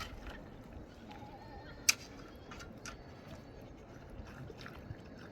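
A farm animal bleats briefly about a second in. A single sharp snap or knock follows near two seconds, with a few fainter clicks, over steady background noise.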